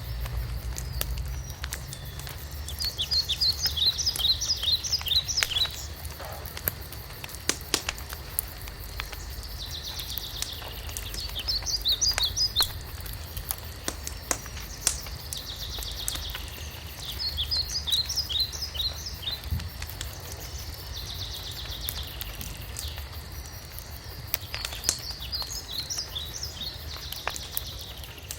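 Wood fire crackling with frequent sharp pops and a low rumble, while a songbird repeats a short phrase of rapid descending chirps about every six to seven seconds.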